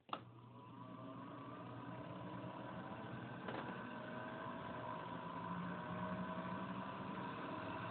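A 1958 distributor test machine switched on with a click and spinning a distributor: a steady motor hum and whine that grows louder and slowly rises in pitch as it speeds up. A short tick comes about three and a half seconds in.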